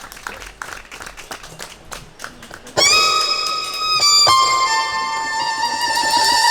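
A violin sounds long, high, held notes, starting suddenly about three seconds in. The second note wavers slightly. Light clicking and tapping come before it.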